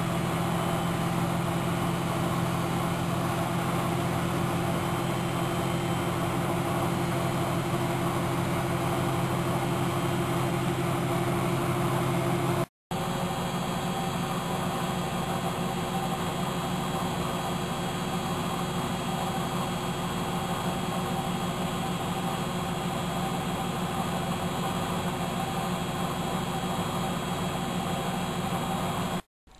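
Miele W763 washing machine running with a steady, even machine hum. The sound breaks off completely for a moment about halfway through, then carries on at a slightly different pitch.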